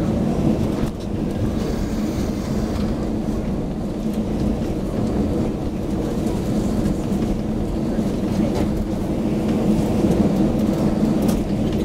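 Cabin noise inside an Airbus A321 on the ground after landing: a steady low rumble from the engines at idle and the air conditioning, with a constant hum.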